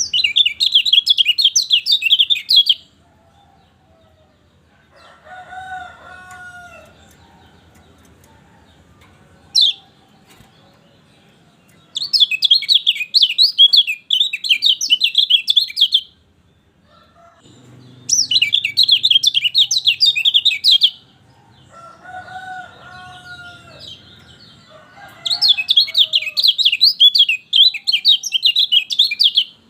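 Kecial kuning (a white-eye) singing in four loud bouts of rapid, high, jittery twittering, each lasting three to four seconds, with pauses between them. In the pauses, fainter and lower calls that bend in pitch are heard.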